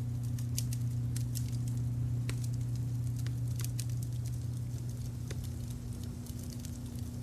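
Wood fire crackling, with irregular sharp pops and snaps over a steady low rumble of a brown-noise layer.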